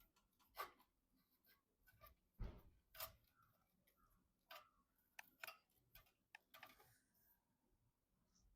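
Faint, irregular clicks and taps of computer hardware being handled during PC assembly, with a soft low thump about two and a half seconds in.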